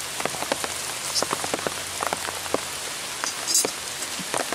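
Steady rain, with irregular drops tapping sharply on a makeshift umbrella sheltering the camera.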